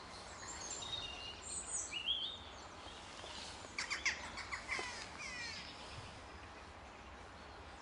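Songbirds chirping in quick high phrases, one burst about one and a half seconds in and a busier run of chirps and falling trills about four to five and a half seconds in.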